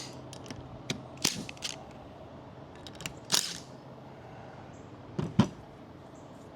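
Metal tools and parts clicking and clanking as a Jake brake housing is taken apart: a handful of scattered sharp knocks, the loudest about three and a half and five and a half seconds in.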